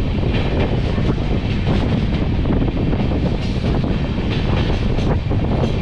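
Passenger train coach rolling along the track: a steady rumble of wheels on rails heard through an open window, with wind on the microphone.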